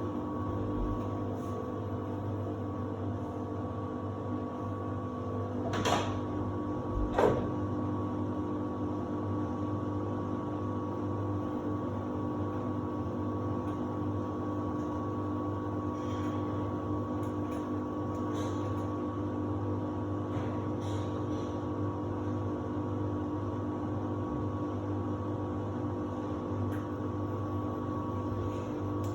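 Samsung WD70T4047CE washer-dryer running steadily in its drying stage: a constant hum with several whining tones. Two short knocks come about six and seven seconds in.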